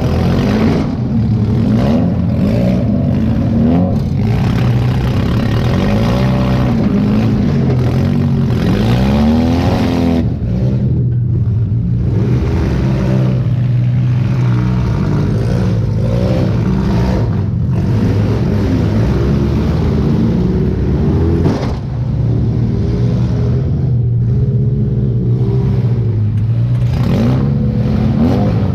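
Demolition derby car's engine heard from inside the cab, revving up and down again and again under hard driving. It eases off briefly about ten seconds in, then climbs again.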